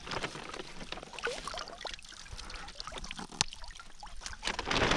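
Water dripping and splashing, with scattered small clicks and knocks and one sharp knock about three and a half seconds in.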